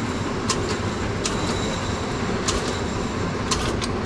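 Bowling pinsetter machinery running with a steady low rumble, with several sharp metallic clanks at irregular moments.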